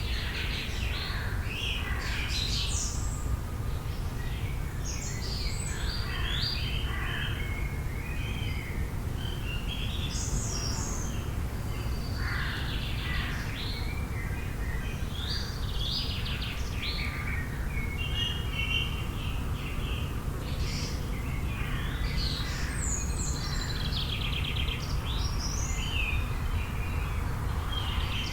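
Several songbirds chirping and trilling in overlapping calls, over a steady low background rumble.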